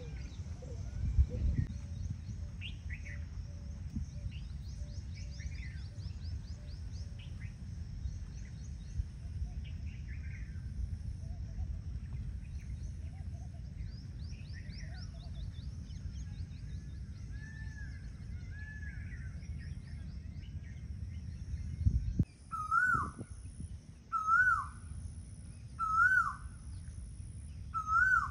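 Birds chirping and calling over a low rumble of wind on the microphone. Near the end, after a thump, one bird gives four loud rising-and-falling calls about a second and a half apart.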